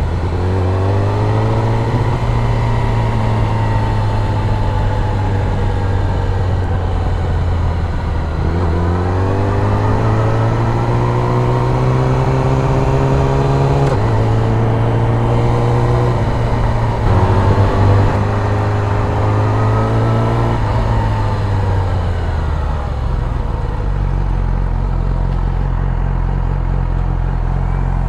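Yamaha YZF-R6 inline-four engine riding through traffic: it rises in pitch several times as the bike accelerates, with a step down at a gear change, then falls away as the bike slows. It idles steadily for the last few seconds.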